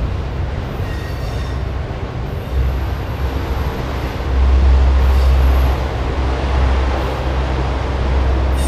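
Autorack freight cars rolling past close by: a steady low rumble of steel wheels on rail, louder for a stretch in the middle, with a few brief faint high wheel squeals.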